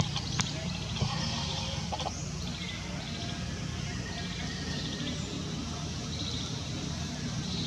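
Small birds chirping and trilling in short repeated bursts over a steady low background hum, with a few sharp clicks in the first second.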